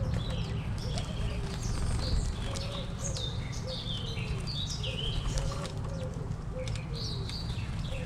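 Several wild birds chirping and calling, with many short high chirps that slide downward and a run of lower short notes underneath, over a steady low rumble.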